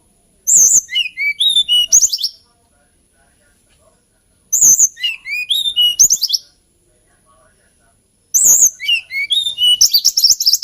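Hill blue flycatcher (Cyornis banyumas) singing three loud song phrases of about two seconds each, roughly four seconds apart. Each phrase is a run of sweet whistled notes that drop in pitch and then climb back up; the last one ends in a quick high trill.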